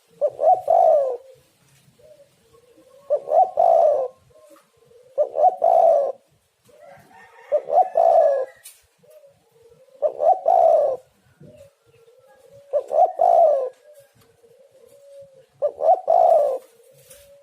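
Spotted dove (tekukur) cooing over and over: seven loud phrases of about a second each, roughly every two and a half seconds, with softer short coos between them.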